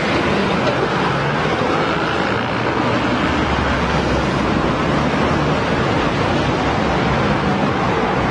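Steady road traffic: a continuous wash of passing cars' tyre and engine noise, with a low engine hum underneath.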